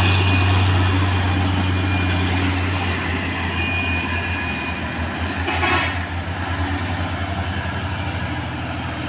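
Heavy diesel truck engine running in a low drone that takes on an even pulsing beat and slowly fades, with a short hiss a little past halfway.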